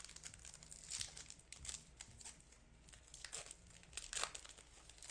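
Baseball trading cards and their packs being handled: a run of short, irregular papery rustles and scrapes as cards are slid and flipped.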